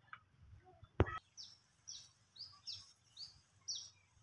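A songbird calling repeatedly with short, high, downward-slurred chirps, about two a second. A single sharp click comes about a second in, before the chirps begin.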